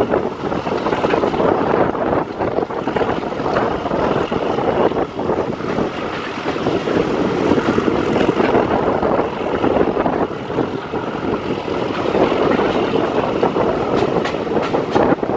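Diesel-hauled passenger train running along the line: a steady rumble and rush of coach wheels on the rails, with the drone of the Class 31 diesel locomotive, and a few sharp clicks near the end.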